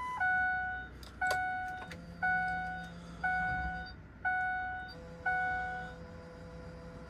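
Ford Excursion's dashboard warning chime sounding six times, about once a second, each chime fading away, right after a steady beep cuts off. A faint steady hum comes in about two seconds in.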